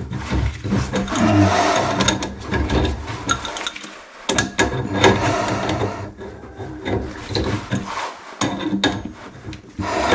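Hard objects being handled and worked at close range: a run of irregular knocks and clicks over scraping and rubbing, with two brief lulls.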